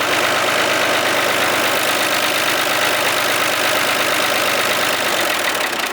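Homemade hydraulic test rig for a U650 tractor's power-steering servo running steadily, its pump and drive motor making a constant loud hum. It begins to wind down right at the end.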